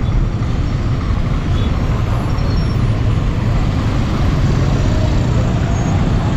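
Busy city street traffic at a signalled junction: vehicle engines running with a steady low rumble.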